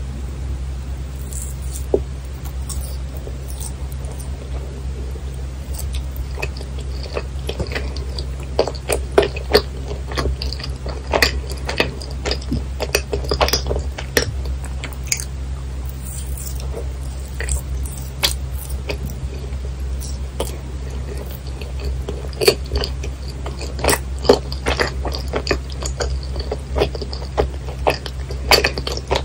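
Close-miked chewing of yakgwa, a chewy Korean honey cookie: wet, sticky mouth sounds and small clicks, sparse at first and busier from about a third of the way in, over a steady low hum.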